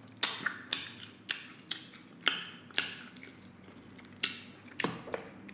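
Close-miked eating of sticky glazed pork ribs: a run of sharp, wet mouth clicks and smacks from chewing and biting, about two a second at irregular spacing.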